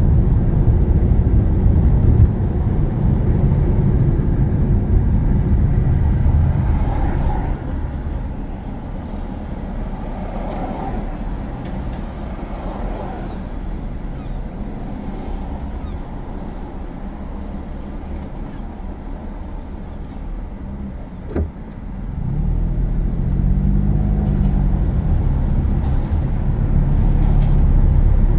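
Car interior road and engine noise while driving. It drops to a quieter level about seven seconds in as the car slows. A single click comes near the end of the quiet stretch, then the engine note rises as the car accelerates and the road noise builds again.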